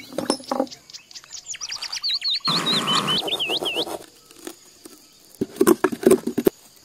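Small birds chirping, with a quick run of high, repeated chirp notes in the middle. There is a brief rustle at the same time, and clusters of sharp taps near the start and again near the end.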